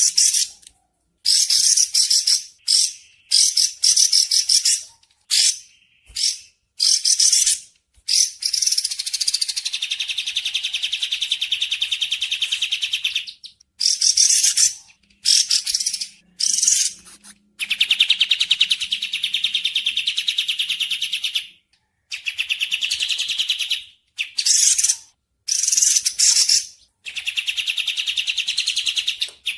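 Birdsong for masteran (training caged songbirds): bursts of fast, high-pitched trilling chatter, some short and some running several seconds, separated by brief pauses.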